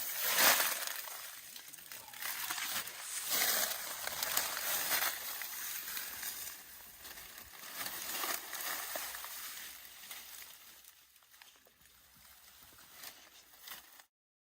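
Leafy branches rustling and crackling as elephants handle and chew them, busier in the first half and fading later, then cutting off suddenly near the end.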